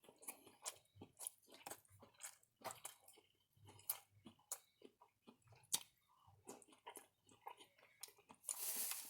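A person chewing food close to the microphone: faint, irregular wet clicks and smacks of the mouth, several a second.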